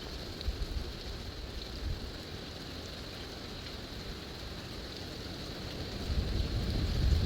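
Gusty wind buffeting the microphone in low, uneven rumbles over a steady hiss, with a stronger gust building about six seconds in.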